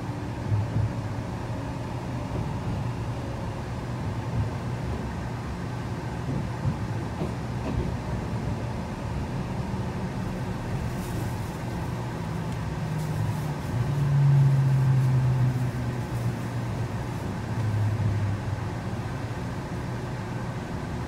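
Cabin running noise of an E653-series electric train: a steady low rumble of wheels on rail and running gear, with a low hum that swells loudest about two-thirds of the way through and again briefly near the end as the train runs into a station.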